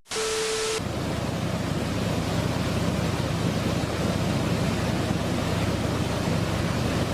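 Steady road and engine noise from a moving vehicle, an even rushing hiss over a low rumble. A brief steady electronic tone sounds in the first second.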